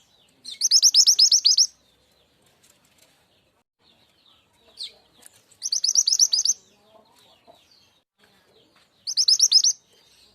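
Mantenan gunung (truntung weru) songbird calling in three loud bursts, each a fast run of about ten high, down-slurred notes, with faint chirps between the bursts.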